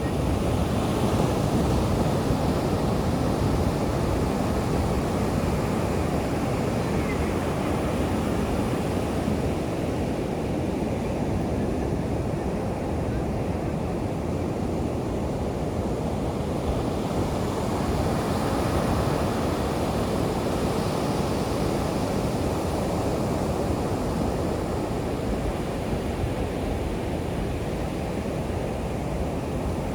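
Pacific Ocean surf breaking and washing up the beach in a steady rush, with wind noise on the microphone.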